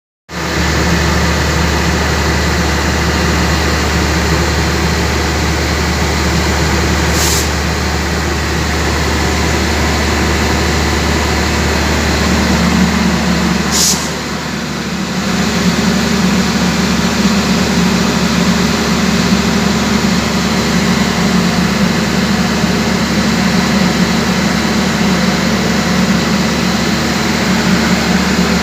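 Diesel generator engine of a railway power-baggage car running steadily, a loud low drone with a constant hum. Two short hisses come about 7 and 14 seconds in. The engine note dips briefly around the second hiss and then settles into a stronger, steady running note.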